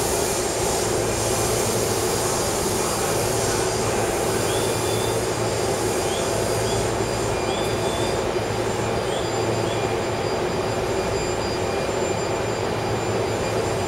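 Keio line commuter train standing at the platform, its equipment giving a steady hum, with a few faint short high chirps in the middle.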